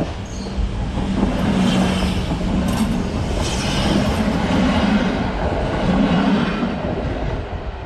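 Polregio SA137 diesel multiple unit passing close by: its diesel engine drone and rail wheel noise swell up, stay loud for several seconds, then begin to fade.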